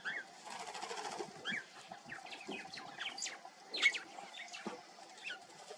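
Small birds chirping in quick short calls, several a second, with the loudest call about four seconds in.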